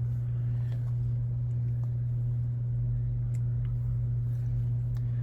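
A steady low hum runs throughout, with a few faint clicks from small RC wheel parts being handled on the bench.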